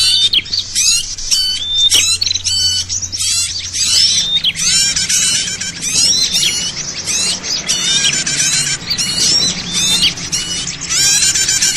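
A busy chorus of many small birds chirping and twittering at once, their calls overlapping densely: a bird-lure recording played to draw small birds in.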